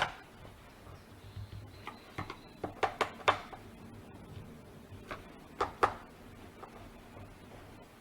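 Scattered sharp clicks and knocks from hand tools and the saw's plastic housing being handled during reassembly. There is a cluster of several about three seconds in, and two close together near six seconds.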